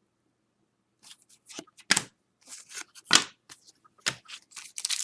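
Trading cards and pack wrappers being handled: a string of short paper swishes and rustles starting about a second in, getting louder and denser near the end.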